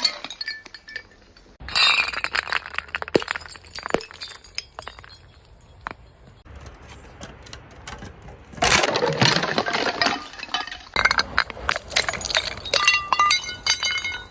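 Glass bottles being crushed and broken: bursts of crunching and shattering glass about two seconds in and again past the halfway mark, then a run of sharp clinks with short bright ringing tones as glass pieces knock together.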